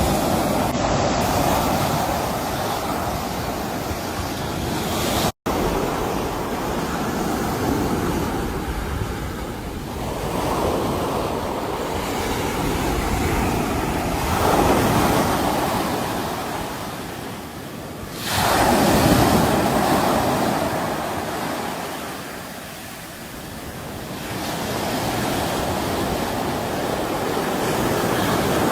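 Sea waves breaking and washing on a shore: a continuous rush that swells and ebbs every few seconds, with the strongest surge coming suddenly about eighteen seconds in. The sound cuts out for a split second about five seconds in.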